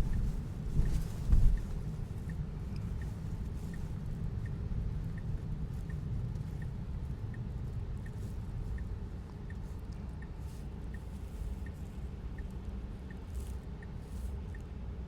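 A car's turn-signal indicator ticking steadily, about one and a half ticks a second, over a low rumble inside a Tesla's cabin. A couple of dull thumps come in the first second and a half.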